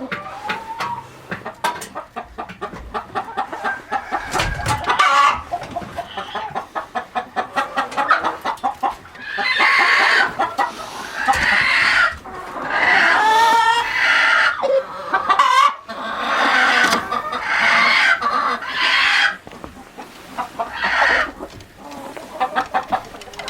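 Chickens clucking in quick short notes, then breaking into a series of loud drawn-out calls about nine seconds in that go on for some ten seconds.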